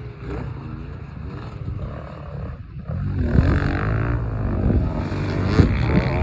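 Yamaha PW50's small two-stroke single-cylinder engine revving up and down as the bike is ridden, getting louder about halfway through.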